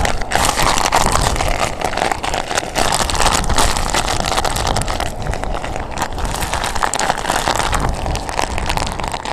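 Typhoon wind blasting a smartphone's microphone: a loud, unbroken rush of wind noise, thick with rapid crackling hits.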